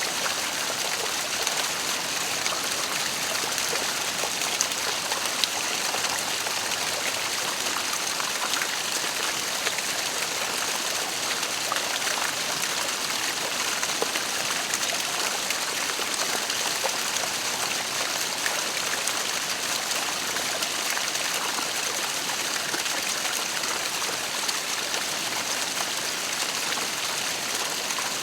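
Waterfall: falling water making a steady, even hiss of splashing that does not change.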